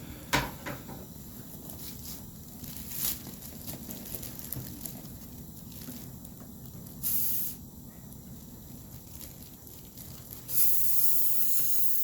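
Dental air-water syringe and suction hissing during a patient's mouth rinse: one short hiss about seven seconds in, then a steady hiss from about ten and a half seconds in.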